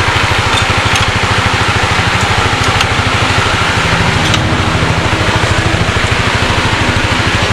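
An engine idling steadily with a fast, even low pulse, and a few light clicks and taps over it.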